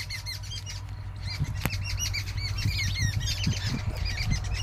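Small birds chirping in the tree above, a rapid run of short high chirps that goes on without a break, over a steady low hum.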